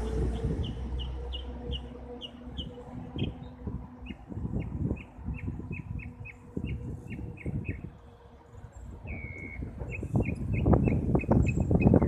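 Birds calling from a tree: runs of short, evenly spaced high notes, several a second, in three series with brief pauses between. A passing airplane's drone fades out over the first few seconds, and a low rumbling noise swells near the end.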